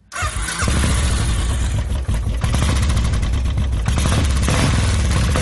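Royal Enfield single-cylinder engine running loud through a Red Rooster stainless-steel aftermarket exhaust, a steady deep thumping exhaust note that starts abruptly.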